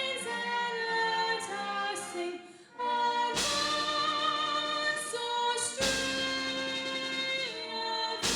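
Group of voices singing with instrumental accompaniment: long held notes in several parts, a brief break about two and a half seconds in, then a louder entry.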